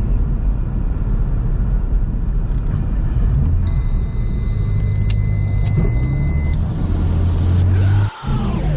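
BMW N54 single-turbo straight-six running at fairly steady revs while the car is driven, with a steady low drone and road noise. A steady high-pitched tone sounds for about three seconds in the middle, and the sound briefly drops out near the end.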